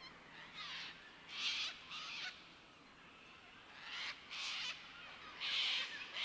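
Harsh bird calls, each about half a second long, coming singly and in pairs about eight times over quiet forest background.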